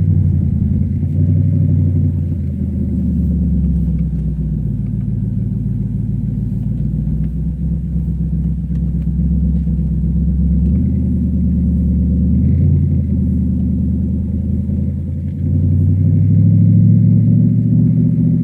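Cadillac STS-V's supercharged V8 running, heard from inside the cabin while driving. The engine note shifts up and down a few times with changes in throttle or gear.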